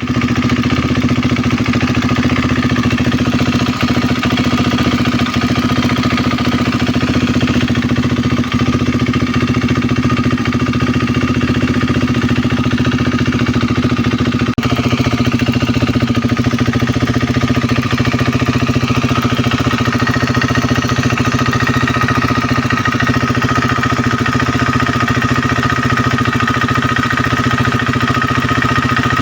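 A KTM 390 Duke's single-cylinder engine idling steadily, with the ticking that comes from its solenoid-operated EVAP purge valve. That ticking is normal and is not an engine fault.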